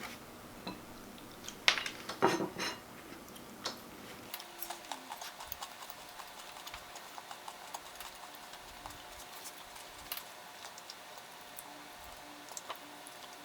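Chocolate-covered bacon being bitten and chewed: a few louder crunches about two seconds in, then soft, irregular little clicks of chewing.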